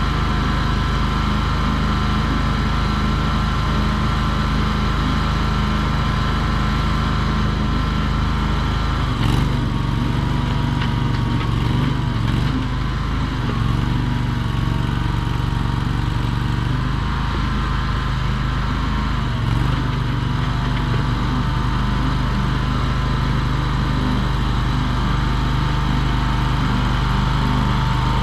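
Mini skid steer's engine running steadily, its note shifting about nine seconds in and again near twenty seconds as the load or throttle changes.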